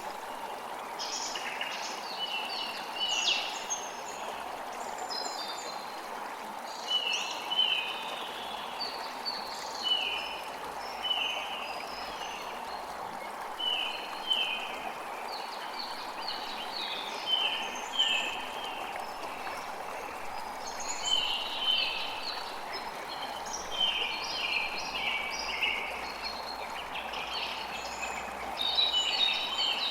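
Birds chirping over a steady rush of running water, their calls short falling notes repeated in quick clusters throughout.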